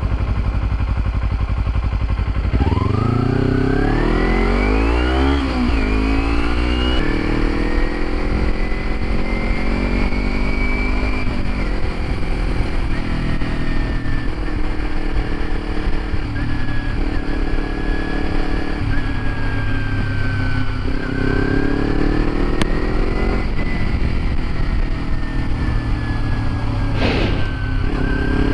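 Motorcycle engine running low, then revving up hard about three seconds in, its pitch rising, dropping briefly at a gear change and rising again. It then runs at fairly steady cruising revs with small changes, and pulls up again near the end.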